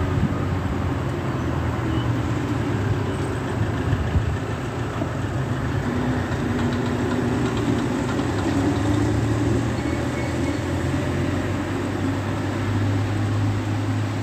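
A vehicle's steady low engine rumble, its pitch shifting slightly now and then, under a constant hiss.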